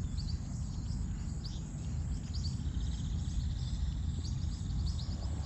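Birds chirping in quick, short calls, with a faint steady high tone joining about halfway through, over a steady low rumble.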